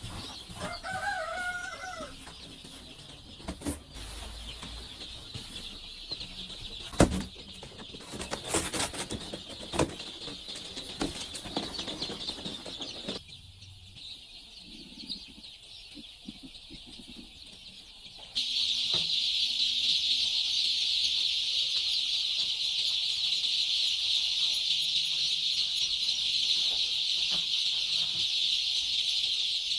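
Chickens clucking, with a short call and wing flaps and scattered knocks in the first half. About two-thirds of the way in, a loud, steady, high-pitched hiss starts abruptly and covers the rest.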